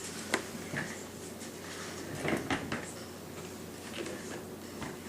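A few light clicks and knocks, with a few soft, short vocal sounds.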